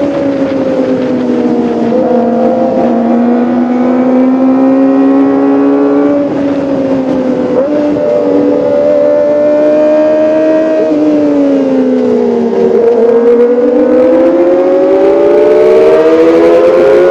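Kawasaki ZX-25R (2022) four-cylinder engine running at high revs, its pitch easing and climbing with the throttle. There is a brief dip about eight seconds in, and a deeper sag near thirteen seconds before it climbs again and gets louder near the end.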